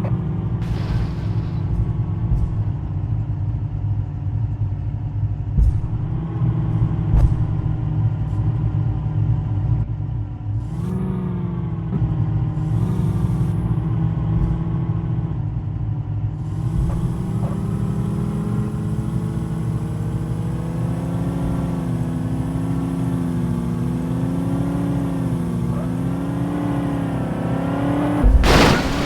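A vehicle engine running steadily, its pitch rising about ten seconds in and wavering later, with a brief loud burst of noise near the end.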